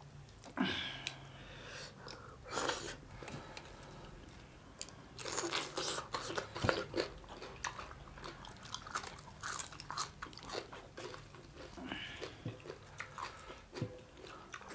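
Close-up crunching and chewing of crisp fried small fish eaten by hand, in irregular bursts of crackles that are busiest around the middle.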